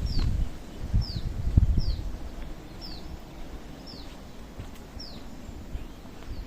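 A bird repeating a single short, high, downward-slurred whistle about once a second, six times. Low footsteps sound in the first two seconds, then fade.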